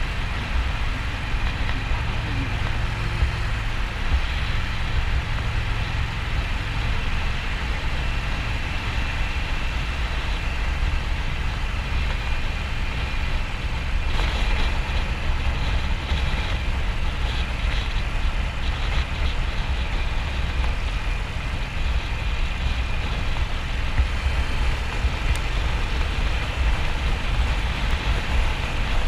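2009 Harley-Davidson XL1200N Nightster's air-cooled V-twin running steadily, mixed with road noise.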